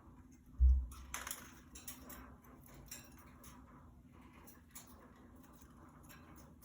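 Budgies moving about their cage, making scattered light clicks, taps and small rattles, with one dull thump about half a second in.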